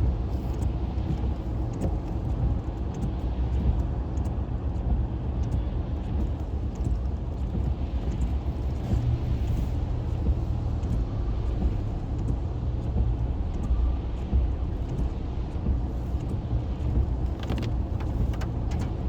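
A car's engine and cabin noise heard from inside the car: a steady low rumble with an even hiss, and a few faint clicks.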